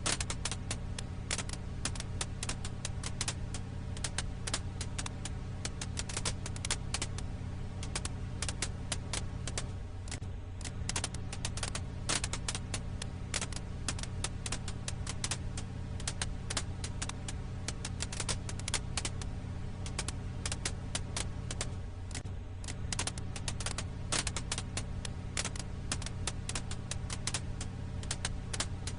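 Firewood crackling in a campfire: frequent sharp pops and snaps, irregular and close together, over a steady low rumble.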